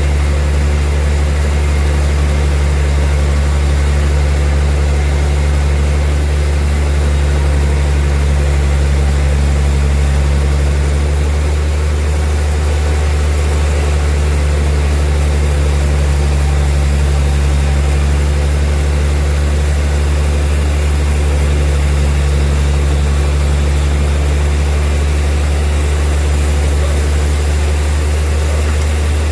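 Large sawmill bandsaw running with a steady, loud low drone and a constant hiss above it, with no pauses.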